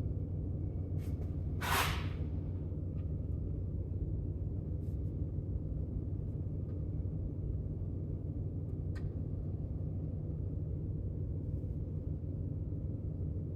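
Steady low machine hum, with a short whoosh just under two seconds in and a few faint clicks.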